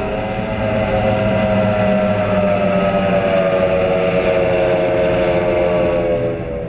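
Skater catamaran race boat's engines running hard at speed. The engine note drifts slowly down in pitch, and the sound falls away fairly suddenly near the end.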